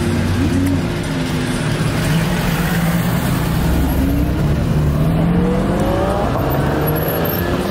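Car engine running, then revving with its pitch climbing over a couple of seconds about halfway through.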